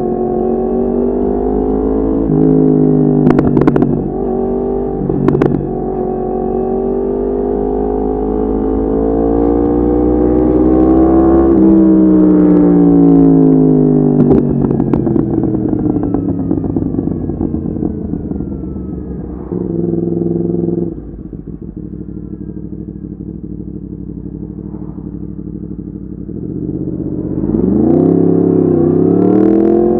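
Yamaha MT-10's crossplane inline-four through an Akrapovic exhaust, under way: the revs climb with two sharp cracks a few seconds in, then wind down as the bike slows. After a quieter steady stretch comes a quick dip and rise in revs near the end.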